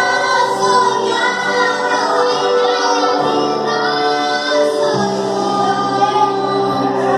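Female voices singing a gospel song with instrumental backing. A steady low bass note comes in about five seconds in.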